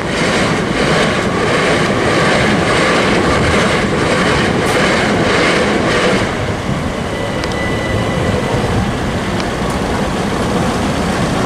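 Electric passenger trains passing over a level crossing. The wheels clack over the rail joints about twice a second for the first six seconds, then the noise eases to a steadier rumble.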